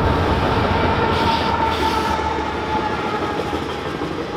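Freight train passing close by: diesel locomotive rumble and wheels clattering over the rail joints. The heavy low rumble eases after about a second and a half, and two brief hisses come about one and two seconds in.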